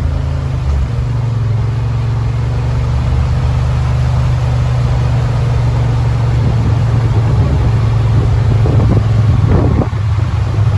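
Yamaha Wolverine side-by-side's engine running steadily as the vehicle creeps along at low speed, a constant low drone that shifts slightly about a second in.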